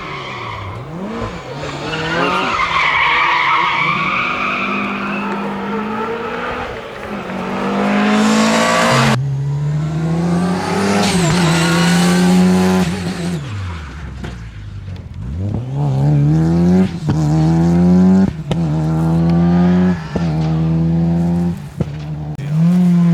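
Rally car tyres squealing and skidding in the first few seconds. About nine seconds in the sound changes abruptly to a rally car engine revving hard, its pitch climbing and dropping back with each of several quick gear changes.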